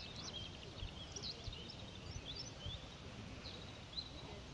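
Small birds chirping, a scatter of short, high calls in quick succession over a steady low rumble of outdoor background noise.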